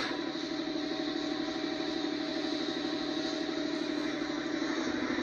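An engine running steadily: a droning hum with a fast, even pulse and no change in pitch.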